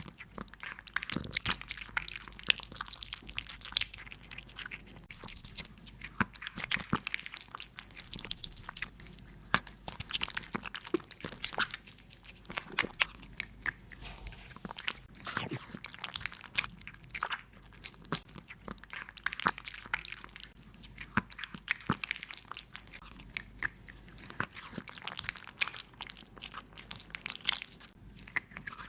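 A cat chewing and biting its food close up, an irregular run of sharp clicks.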